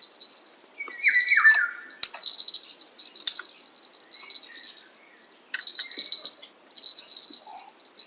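Wild birds singing: several bursts of rapid high trills, with a few quick descending whistled notes about a second in.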